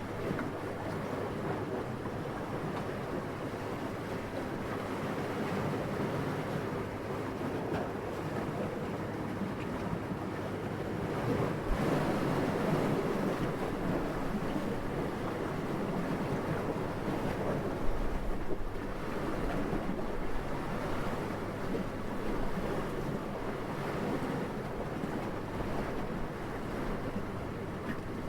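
Steady rushing wind that swells into a stronger gust around the middle, then eases back.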